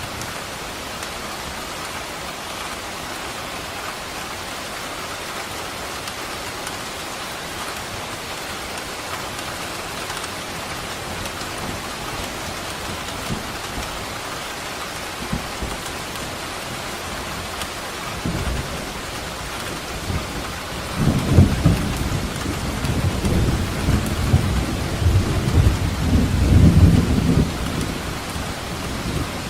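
Steady heavy rain with a roll of thunder that builds from about two-thirds of the way in, rumbling loudest near the end before fading.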